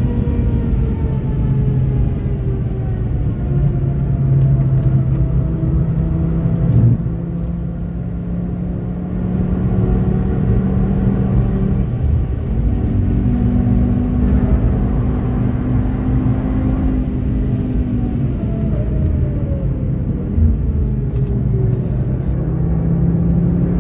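The 2013 Audi TT RS 8J's turbocharged 2.5-litre five-cylinder engine, heard from inside the cabin at full speed in fifth gear. Its note sinks slowly as the car slows, drops in loudness for a moment about seven seconds in, and then holds steady. It falls again under braking and a downshift, and picks up as the throttle opens near the end.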